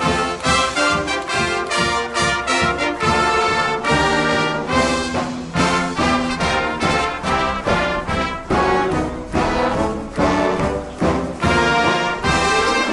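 A marching wind band playing a brass-led piece at full volume, trombones and trumpets over a steady drum beat.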